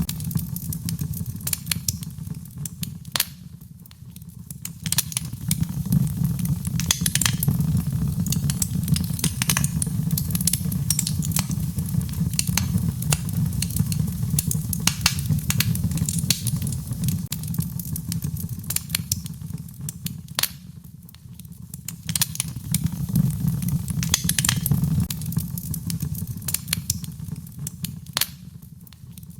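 Wood fire in a fireplace crackling, with irregular sharp pops and snaps over a low steady rush of flame that eases off briefly a few times.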